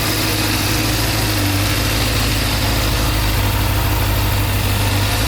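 Inline-four motorcycle engine idling steadily.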